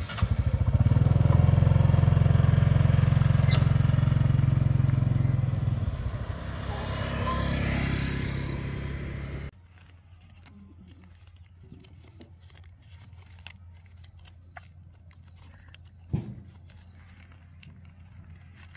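A motorbike engine running close by for about nine seconds, then the sound cuts off abruptly, leaving a faint background with a single knock a few seconds before the end.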